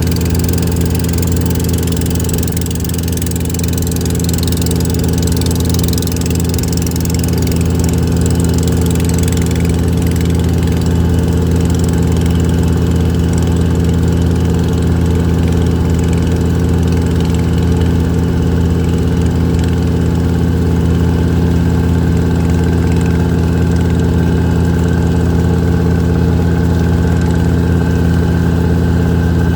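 Fishing boat's engine running steadily at constant speed, a loud, even drone that holds unchanged throughout.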